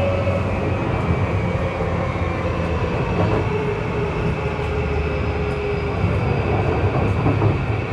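Running sound of a JR East E235-1000 series electric train: a steady rumble of wheels on rail, with a faint motor whine that falls slightly in pitch.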